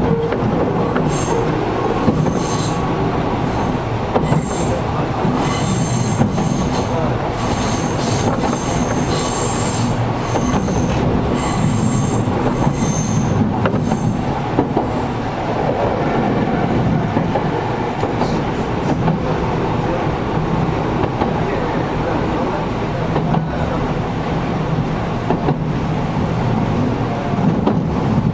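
Inside a Gakunan Railway 7000-series electric railcar running between stations: a steady rumble of wheels on rail, with the air conditioning running. A high wheel squeal comes and goes in short stretches through the first half, with occasional rail-joint clicks.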